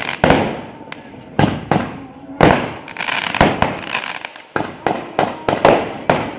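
Fireworks going off in quick succession: an irregular run of sharp bangs, about two a second, each trailing off.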